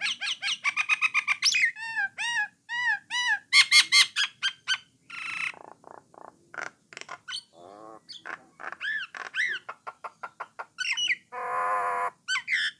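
Common myna (jalak nias) singing a varied, chattering song of quick arched whistles, clicks and short notes, with a harsh rasping note about three-quarters of the way through.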